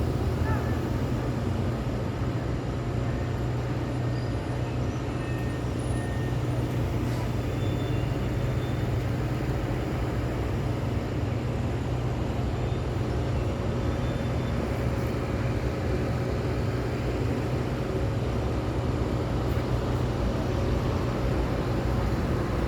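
Road traffic on a city street: a steady low engine drone from vehicles running, with no single horn or pass standing out.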